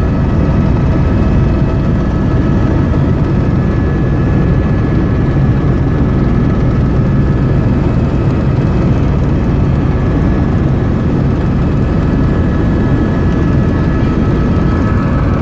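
Helicopter cabin noise heard from inside during flight: a loud, steady drone of engine and rotor, with a few steady whining tones over it.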